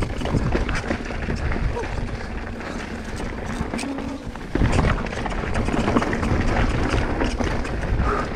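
Mountain bike riding downhill over rough, rocky trail: wind rumble on the microphone with tyre noise and frequent clicks and knocks from the bike, louder from about halfway through.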